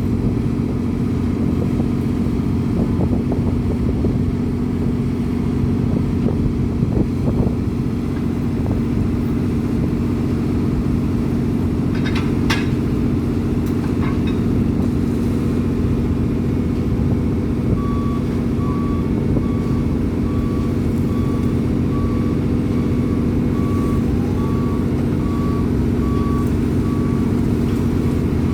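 Heavy construction machine's diesel engine running steadily, with a few sharp metallic clicks. About two-thirds of the way in, a reversing alarm starts beeping at an even pace, a bit more than once a second.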